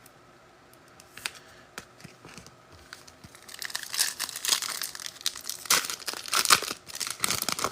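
Foil wrapper of a football trading card pack being torn open and crinkled, starting about three and a half seconds in after a few light clicks.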